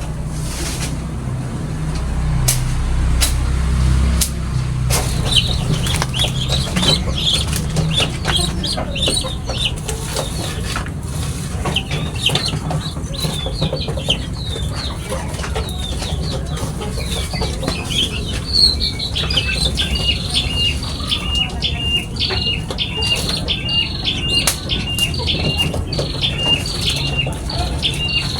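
A flock of pipit, small finch-like birds, chirping and twittering in quick overlapping calls. In the last third one bird repeats a short even chirp about twice a second over the flock. Scattered clicks and a low rumble in the first few seconds lie underneath.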